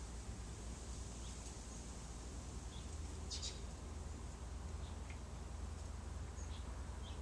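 Faint outdoor ambience: short, high bird chirps every second or so over a low steady rumble.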